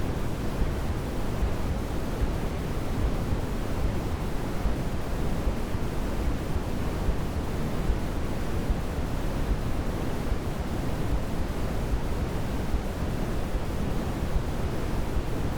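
Steady baby-sleep white noise: an even, unbroken hiss, fuller in the bass than in the treble, with no change in level.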